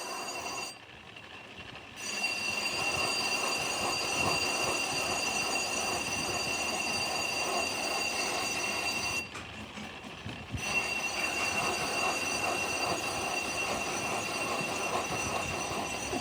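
Metalworking machine running with a steady high-pitched squeal over a rough grinding noise, dropping out twice for about a second.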